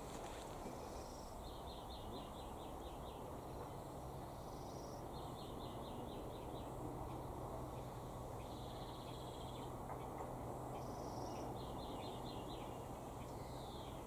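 Outdoor countryside ambience: distant birds calling in short runs of quick repeated high notes, several times over, above a steady low background rumble.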